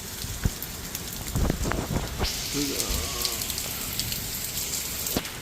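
Rain falling steadily and pattering on surfaces, with many sharp drop hits and a few low knocks in the first couple of seconds.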